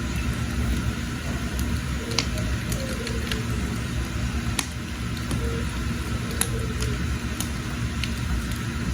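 Wood fire burning: a steady low rumble with scattered sharp crackles and pops from the firewood.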